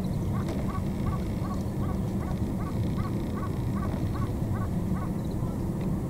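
A bird calls a rapid series of about a dozen short, evenly spaced notes, about three a second, then stops a little over four seconds in. A steady low rumble runs underneath.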